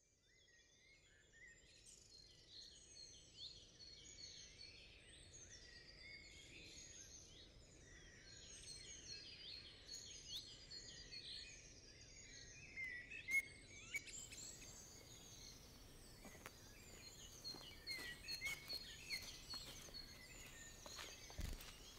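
Quiet woodland ambience of many birds singing and chirping at once, fading in over the first couple of seconds over a faint low hiss. A few sharp clicks come in the second half, and a brief low thump near the end.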